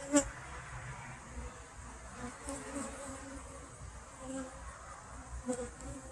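Honeybees buzzing around the hive, a steady hum of wingbeats. A sharp click comes just after the start, and a softer knock about five and a half seconds in.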